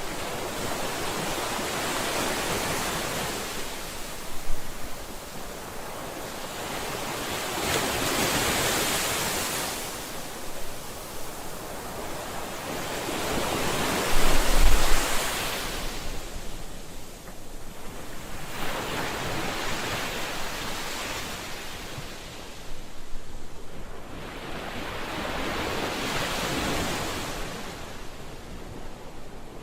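Ocean surf: waves breaking and washing in, swelling and fading in slow surges about every six seconds.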